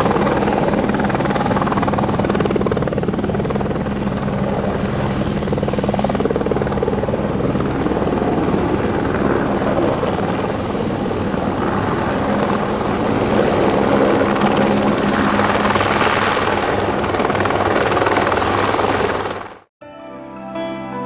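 Aerospatiale AS355F2 Ecureuil 2 twin-turbine helicopter running: a steady engine tone over the beat of the rotor. It cuts off suddenly near the end, and soft music begins.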